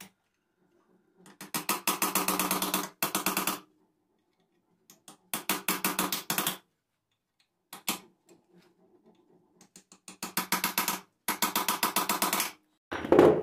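Power impact driver hammering in repeated bursts of rapid clicks over a running motor's hum, working at seized screws on an alternator's front cover. Five bursts, the longest about two seconds, with short pauses between them.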